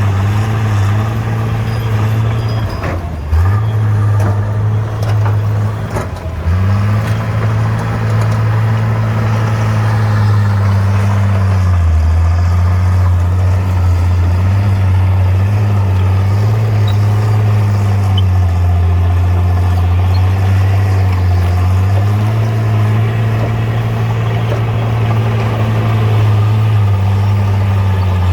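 Bulldozer's diesel engine running steadily under load. Its note sags briefly a few times, with a couple of knocks in the first few seconds.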